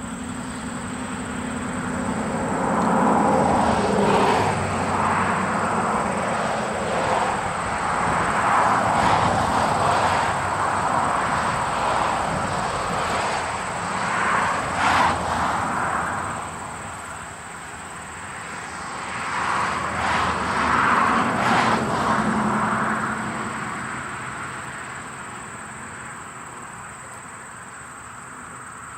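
A narrow-gauge train running on the line, a steady rumbling rush that swells, eases and swells again, with a few sharp clicks partway through, then fades away.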